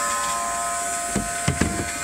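Small electric bilge pump motor buzzing steadily, its float switch lifted by poured water, then shutting off near the end. A few dull thumps about a second in.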